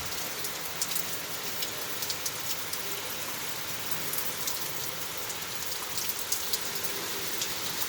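Heavy wind-driven rain from a hurricane's outer bands, falling steadily with a constant hiss and scattered sharp drop ticks close to the microphone.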